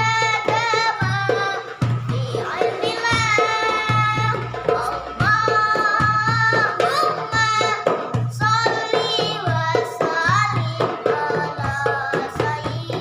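A boy singing sholawat in a high, ornamented voice, the melody bending and sliding on long held notes, over a steady rhythm of rebana frame drums played banjari style.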